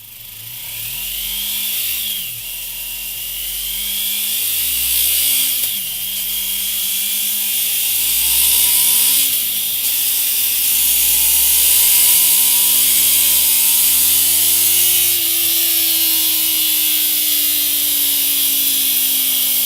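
Yamaha MT-03's parallel-twin engine running through a Mivv Suono aftermarket exhaust on a test bench, accelerating up through the gears: the pitch climbs, drops sharply at each of about four upshifts, and climbs again, getting louder overall, over a steady hiss.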